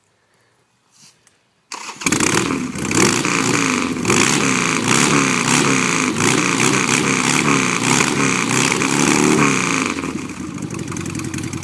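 A motorcycle engine starts up suddenly about two seconds in and runs loud, revved up and down again and again, settling to a lower run near the end.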